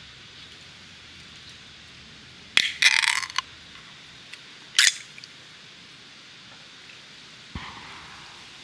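Sharp clicks and a short rattle of small hard objects knocking together, about two and a half seconds in, another click near five seconds, and a softer knock near the end, over a steady background hiss.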